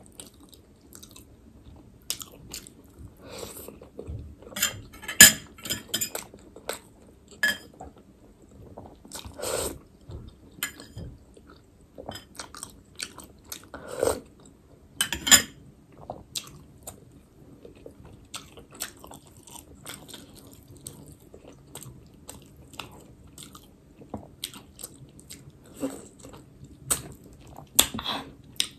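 Close-miked chewing and biting: wet, clicky mouth sounds of someone eating chicken momos, with a few louder bites and smacks among steadier chewing.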